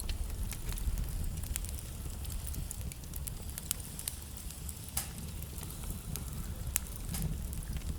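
Wood fire burning in a fireplace: a steady low rumble of flames with irregular sharp crackles and pops from the burning logs, the loudest snaps about a second and a half in, at five seconds and near seven seconds.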